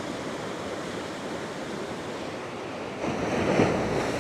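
Atlantic ocean waves breaking on the beach: a steady rushing surf, with a bigger wave crashing in about three seconds in.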